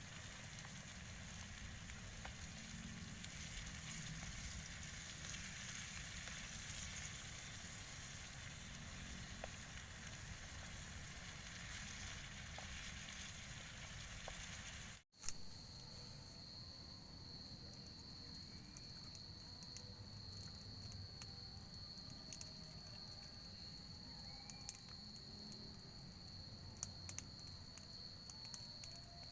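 A steady hiss for about fifteen seconds, then a sudden break and click. After it, a forest insect's steady high-pitched drone, a cricket or cicada, with scattered faint ticks.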